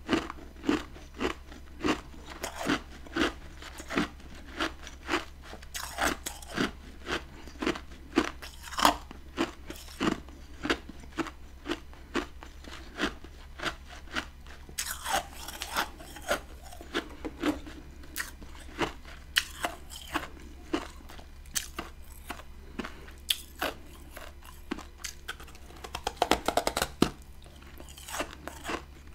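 Close-up chewing of freezer-frost ice chunks: crisp crunches about every half second, growing sparser after the first half, with a quick flurry of crunches near the end.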